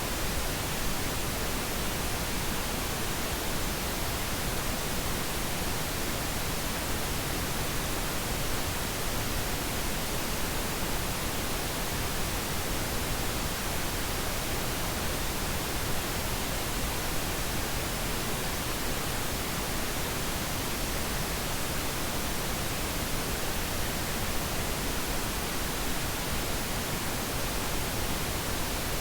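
Continuous synthetic pink noise, an even, unchanging hiss across the whole range of pitch.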